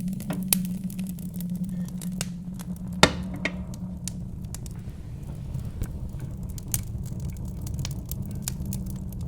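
Wood fire crackling in a fireplace, with scattered sharp pops and one loud pop about three seconds in, over a low steady rumble of wind.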